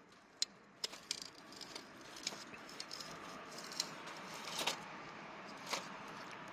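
Wood campfire crackling, with sharp pops scattered throughout over a hiss of flame that builds over the first couple of seconds.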